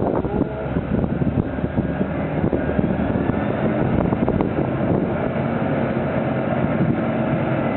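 Large fork lift truck fitted with a tire handler attachment, its engine running steadily under load while it works a mining tire.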